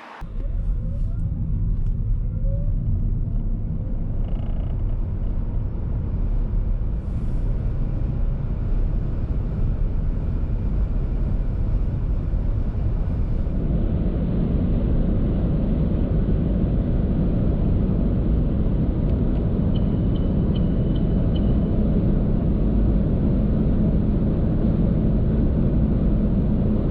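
Road and wind noise inside a 2020 Opel Corsa-e electric car under hard acceleration. A faint rising motor whine shows at the start, and the low rumble of tyres and wind grows louder about halfway through, then holds steady at speed.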